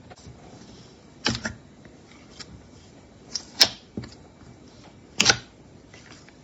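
Slime being pressed and squished by hand, giving sharp pops and clicks: three loud ones, about a second, three and a half and five seconds in, with a few softer clicks between.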